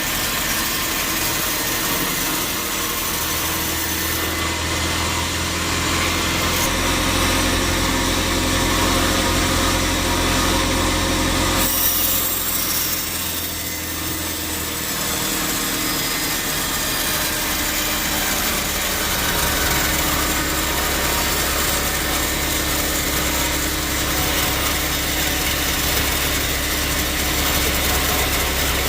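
Sawmill saw and its drive motor running while cutting through a teak log. The sound is a continuous mechanical hiss over a low hum, and the hum changes pitch about twelve seconds in.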